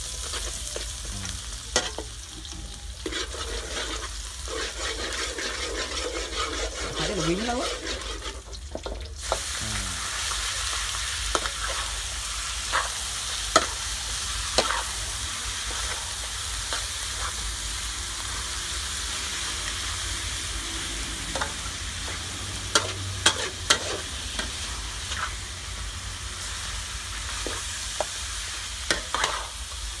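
Hot oil sizzling in a steel wok while a metal spatula stirs, scraping and clacking against the pan. About nine seconds in the sizzle grows fuller and brighter as chopped duck pieces fry in the oil.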